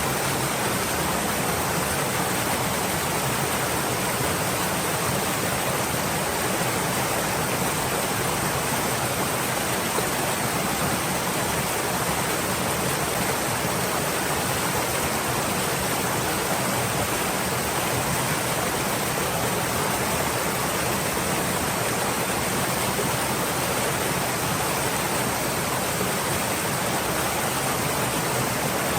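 Stream water flowing steadily, an even rushing wash with no breaks or distinct splashes.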